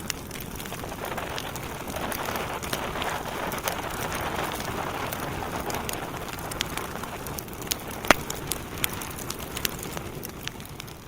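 Wood fire burning in a fireplace: a steady rushing hiss of flames with frequent small crackles and one sharp pop about eight seconds in. It fades down near the end.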